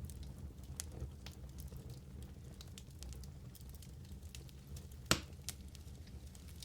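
Wood fire burning in a fireplace: a steady low rumble with scattered sharp crackles, and one loud pop about five seconds in.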